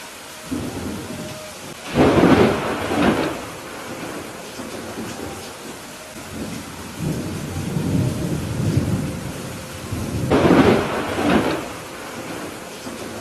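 Steady rain with rolling thunder. A rumble begins about half a second in, loud thunderclaps come about two seconds in and again about ten seconds in, and a long low rumble rolls between them.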